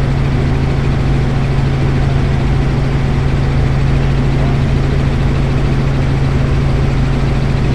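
Helicopter in flight, heard from inside the cabin: a loud, steady engine and rotor drone with a strong low hum that does not change.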